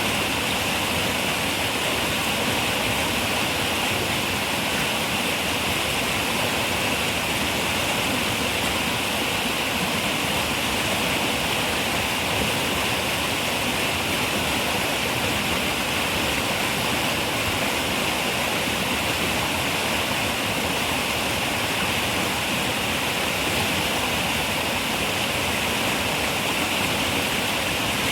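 Steady rushing of a running river, an even wash of water noise with no breaks.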